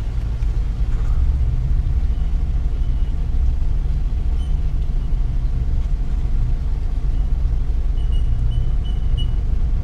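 Mitsubishi Triton ute heard from inside its cab, a steady low rumble of engine and drivetrain as it crawls over rough, uneven ground. A few faint short squeaks come near the end.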